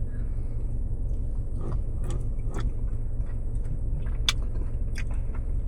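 Steady low rumble of a car interior with the engine running, with a few light clicks and taps scattered through it as the Blizzard is eaten.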